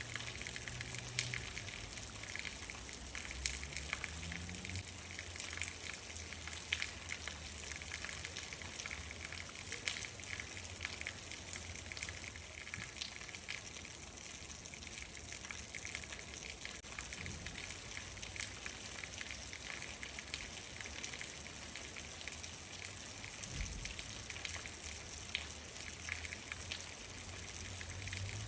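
Steady rain, with many individual drops ticking sharply on a nearby surface over a low rumble.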